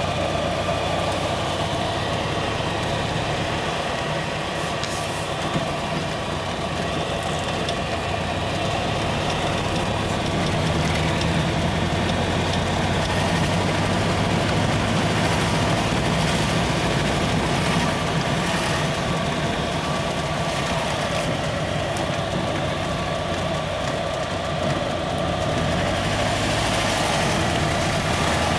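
Matra 530 LX's mid-mounted Ford V4 engine running at low speed through town, heard from inside the cabin. Its note steps up about ten seconds in, and it eases off briefly near the end before picking up again.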